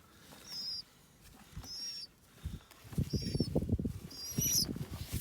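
Nestling birds peeping: short, high chirps, about one a second. From about three seconds in, a louder low rustling and knocking runs along under them.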